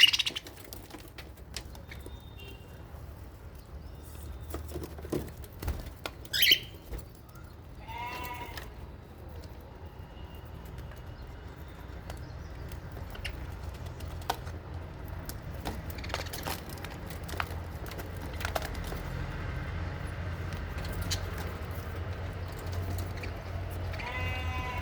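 Sparse animal calls in a budgie and lovebird aviary: scattered clicks and chirps, a rising squawk about six seconds in, and two wavering, bleat-like calls, one about eight seconds in and one near the end, over a steady low rumble.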